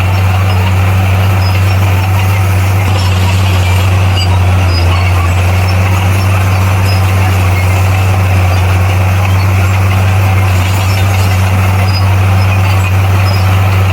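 Bulldozer's diesel engine running steadily with a deep, even hum that does not change in speed.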